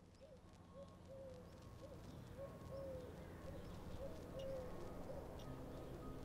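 Faint birdsong: short, arching notes repeated every half second or so over a low hum, growing a little louder. Steady low tones join near the end.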